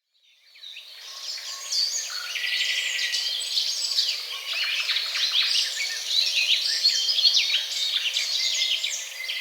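A flock of birds chirping and calling over one another in a dense, continuous chatter, fading in over the first second or two.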